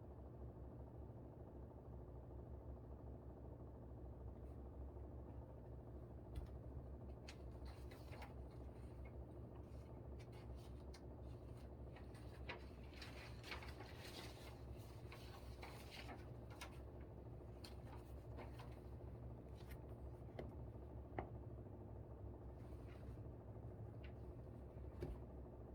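Faint, steady low hum of a room air conditioner, with scattered light scratches and taps of desk work, busiest in the middle.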